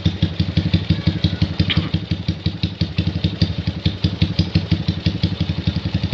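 Honda GL motorcycle's single-cylinder four-stroke engine idling with a steady, even beat. With its loose intake rocker roller replaced, the idle runs normally, without the coughing it had before.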